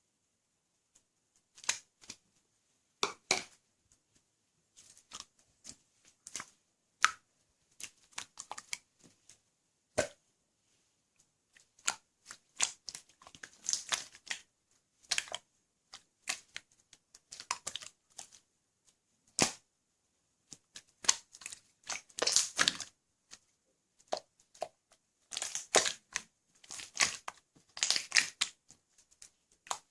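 Irregular crackling, crinkling and clicking from something being handled, in short clusters with brief gaps between them.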